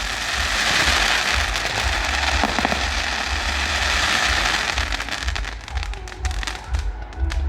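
Fireworks display: a dense, continuous crackling of many small bursts, thinning about five seconds in to separate sharp cracks.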